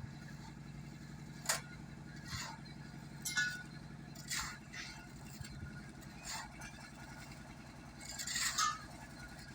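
An engine runs steadily with a low hum, with a few short clinks and scrapes scattered over it.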